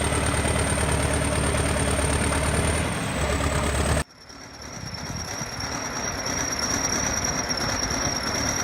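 Heavy diesel engine of a T-130 crawler bulldozer running steadily under load while towing a truck uphill. About four seconds in, the sound cuts off abruptly and engine noise from another shot fades back up.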